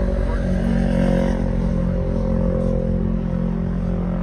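A motor vehicle's engine running with a steady low drone, a little louder about a second in.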